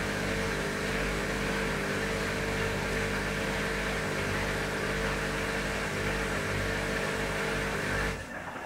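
Washing machine running with a steady whirring hum, stopping suddenly near the end.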